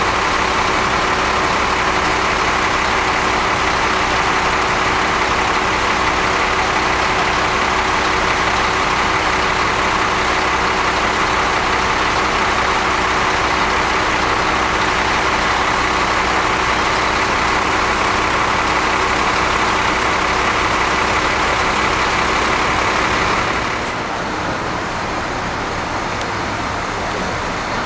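Coach bus on the move: steady engine and road noise. About three-quarters of the way through it drops a little in level and becomes duller.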